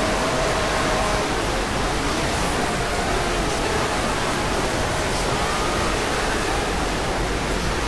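A loud, steady rushing noise spread across all pitches, with faint wavering tones beneath it that fade partway through.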